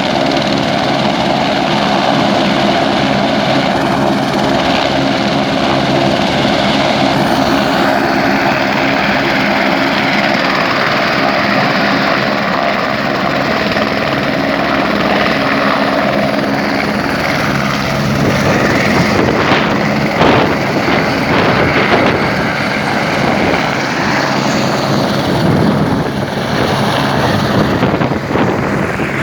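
Helicopter rotor and engine running steadily, a loud continuous drone with a steady hum of tones through it. It gets rougher and louder with uneven bumps of noise in the last third.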